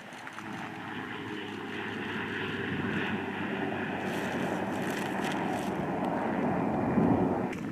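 MQ-9 Reaper drone's turboprop engine and pusher propeller running steadily, slowly growing louder, then dropping away just before the end.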